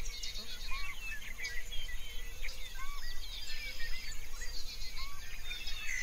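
Many birds chirping and calling at once, quick high notes over a faint steady hiss, with a lower rising-and-falling call repeated three times about two seconds apart.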